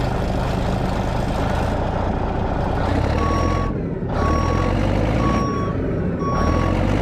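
Caterpillar D6R dozer's C9 diesel engine running under load. About three seconds in, its reversing alarm starts beeping steadily, about once a second, as the dozer backs up.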